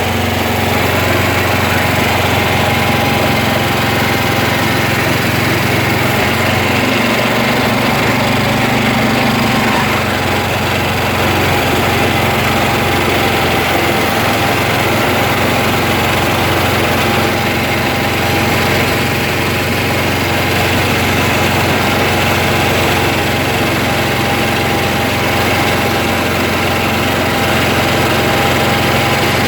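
An engine running steadily: a constant low drone with a thin whine over it.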